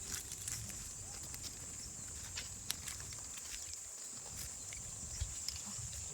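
Goats moving and feeding: scattered light clicks and knocks of hooves and munching, over a steady high-pitched hiss.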